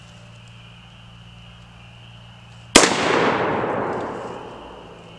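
A single 5.56 rifle shot firing a 62-grain green-tip round, about three seconds in: a sharp crack followed by a long rolling echo that fades over about two seconds.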